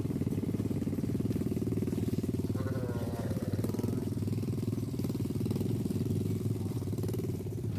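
Small engine running steadily with a fast, even pulse. A short call rises and falls about three seconds in.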